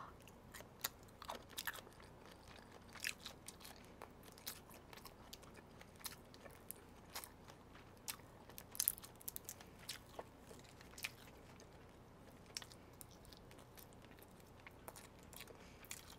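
Faint close-miked chewing and shell cracking as cooked shrimp are eaten and peeled by hand: many small, crisp clicks and crackles, scattered irregularly.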